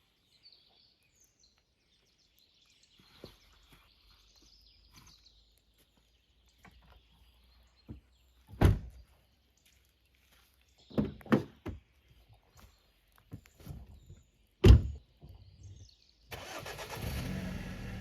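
Several heavy thuds, the loudest about fifteen seconds in, then a car engine starts about sixteen seconds in and keeps running.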